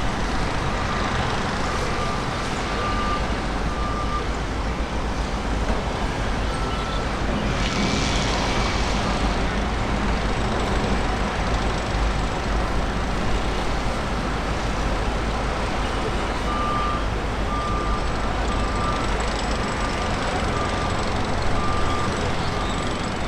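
Steady outdoor engine and traffic rumble, with a vehicle's reversing beeper sounding in a steady series of short beeps for the first few seconds and again through the last six seconds.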